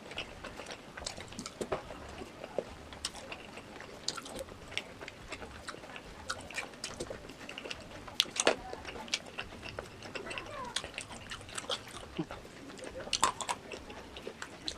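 Close-miked eating sounds of chewy baso aci in spicy soup: wet mouth clicks and chewing, with short slurps.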